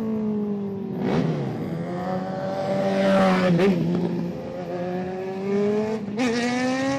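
Performance car engine held at high revs, its pitch slowly sagging and wavering, with three short noisy surges as it is blipped.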